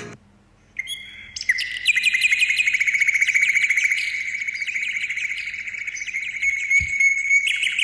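A bird singing a long, fast trill of high chirps repeated many times a second, starting about a second in.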